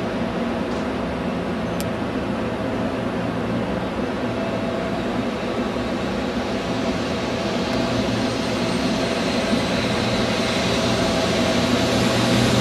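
Shinkansen 0 series electric train humming steadily with its equipment running, then starting to pull away, the sound slowly growing louder over the last few seconds.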